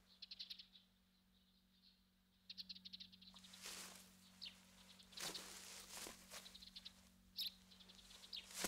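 Near silence, with faint high bird chirps in short rapid trains and a few soft rustles.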